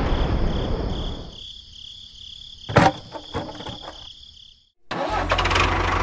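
The rumble of a cartoon 'boom' crash sound effect dies away, and a sharp click comes near the middle. After a brief gap about five seconds in, a steady low tractor-engine running sound starts for the toy tractor.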